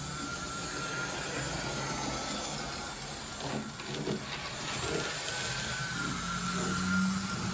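Toy electric train set running on its track: the locomotive's small motor gives a steady whine that wavers slightly in pitch over a hiss of running noise, with a few soft knocks in the middle.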